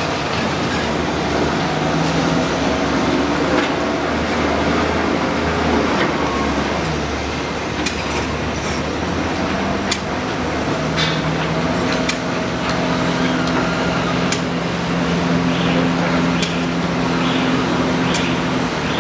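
Excavator's diesel engine running under load, its note dropping and then rising again about halfway through, with sharp metallic clanks now and then, more often in the second half.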